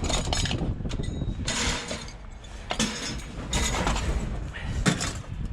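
Scrap metal pieces clinking and clattering as they are pulled and shifted by hand, with irregular sharp knocks.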